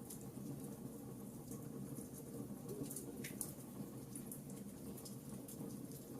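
Log fire crackling in a fireplace: scattered small, sharp pops and ticks over a steady low rumble of the flames, with one stronger pop about three seconds in.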